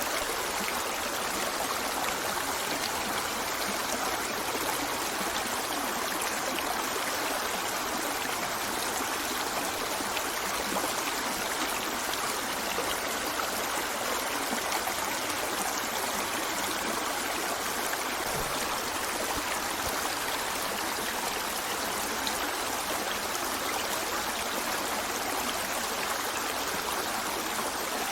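A river flowing steadily over rocks, a constant rushing and trickling of water.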